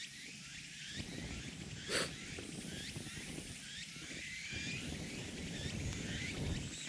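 Small birds chirping again and again in the forest over a low, noisy background, with one sharp crack about two seconds in.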